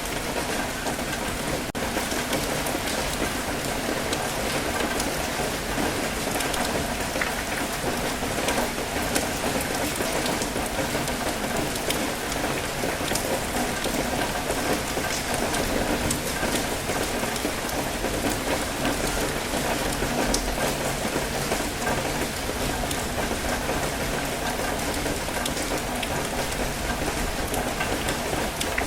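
Steady rain falling, an even hiss dotted with many individual drop ticks.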